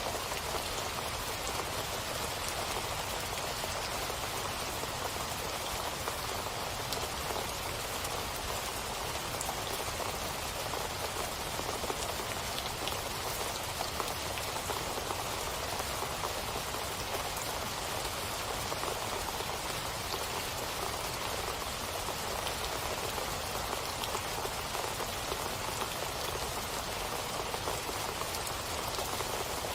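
Steady rain falling, with a dense patter of drops. The sound holds even throughout, with no thunder or change.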